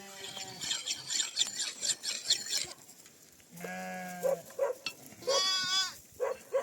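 Sheep bleating: several wavering calls from the flock in the second half, the longest and loudest about five and a half seconds in. A rapid rattle of high clicks comes first.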